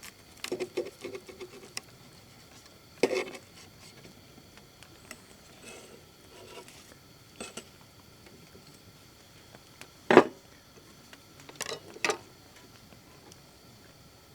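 Scattered short knocks and taps of objects being handled, with a quick run of light taps in the first two seconds and a sharp knock about ten seconds in; faint rustling between them.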